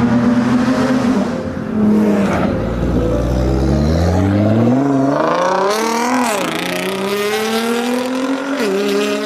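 Nissan GT-R R35's twin-turbo V6 through a decat, straight-piped turbo-back exhaust, running steady at first, then accelerating hard from about two seconds in. The pitch climbs, dips briefly at a shift, then climbs again before dropping near the end.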